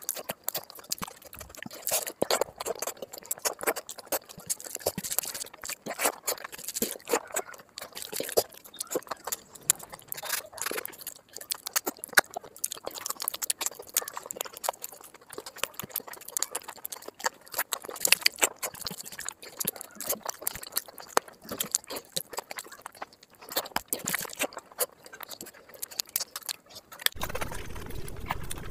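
Close-miked wet chewing and lip-smacking of a person eating handfuls of rice and curry, a quick irregular run of clicks and squelches. Near the end it gives way to a steadier hiss.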